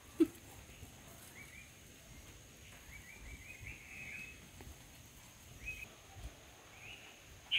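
Birds chirping faintly in several short bursts of quick notes, over a steady high-pitched whine. A single short low bump just after the start is the loudest sound.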